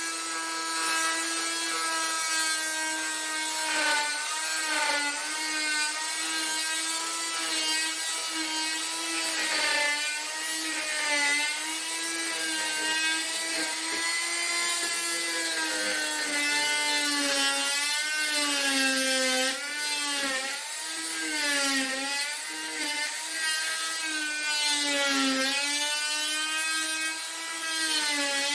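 Power tool cutting wood, its motor running without a break in one steady whine. The pitch sags and recovers again and again as the tool bites into the wood under load.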